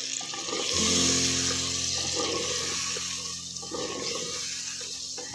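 Chopped tomatoes sizzling in hot oil with onion and garlic masala in a clay pot, stirred with a wooden spatula: a steady hiss, loudest about a second in, with light scrapes and taps of the spatula against the pot.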